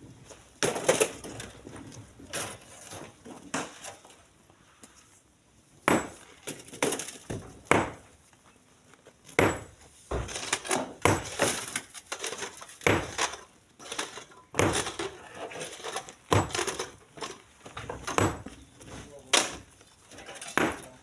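Chunks of split stone landing one after another in a truck bed, with sharp knocks and clatter at irregular intervals, about one a second at the busiest.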